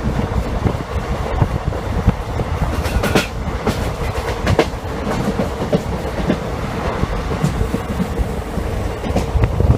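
Express train coach running along the track: a steady rumble of wheels on rails with scattered sharp clicks of wheels crossing rail joints.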